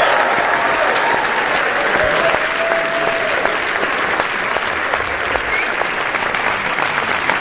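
Crowd applauding, many hands clapping at a steady level, with a few voices calling out over it.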